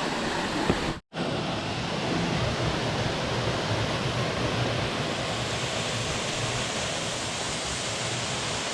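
Steady rushing of mountain-stream water, a waterfall's even roar, which cuts out for a split second about a second in.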